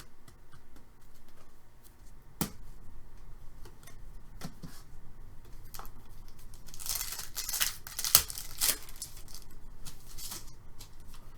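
Hockey card packs being torn open and cards handled: scattered clicks and crinkles, with a longer tearing rustle about seven to nine seconds in.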